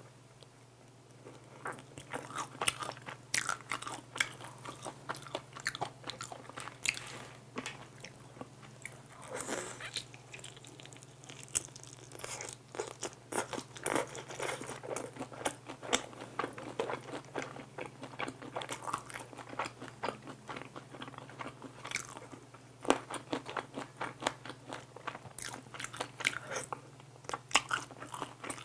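Close-miked crunching and chewing of sauced fried chicken wings: irregular crisp bites and wet chewing, with no pause longer than a second or so.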